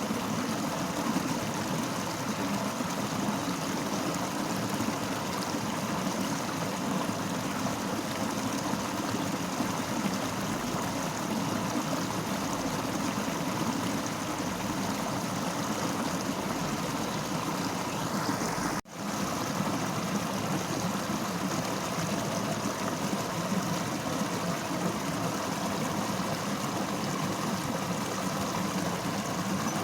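Fast-flowing river rushing steadily over rocks. The sound cuts out for a split second once, about two-thirds of the way through, then carries on unchanged.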